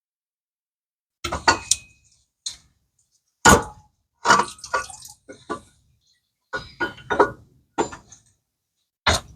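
Sharp metallic clinks and knocks in uneven clusters of tools and metal parts, as the water pump is being unbolted and worked off the engine.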